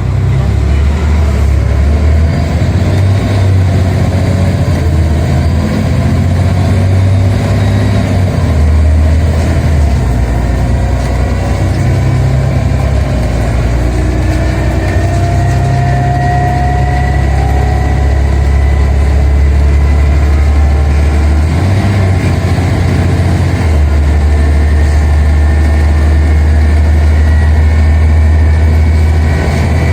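Scania Omnicity bus engine heard from on board while under way: a loud, steady low drone that shifts pitch several times, with a faint whine gliding above it.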